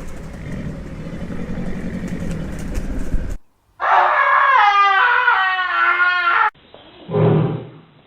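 Wild animal calls from a sound compilation, one after another. First a low, rough growling rumble for about three seconds, then a high wavering call with many overtones, then a short deep roar-like grunt near the end.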